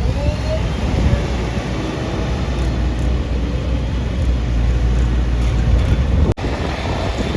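Diesel engines of a backhoe loader and tractors running steadily, a deep even drone, with a momentary cut-out about six seconds in.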